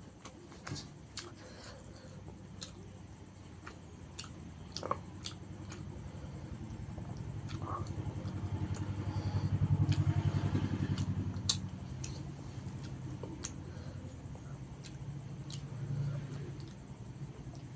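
Chewing and small wet mouth clicks of someone eating rice and fish curry. A low drone swells to its loudest about ten seconds in, then fades away.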